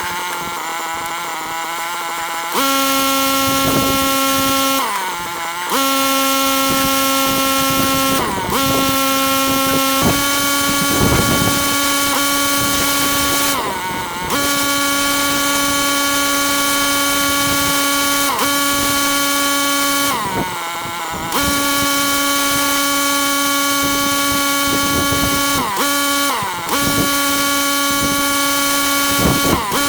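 Pressure washer running steadily, its motor and pump humming at one pitch over the hiss of the water jet. The hum dips and recovers several times as the load changes.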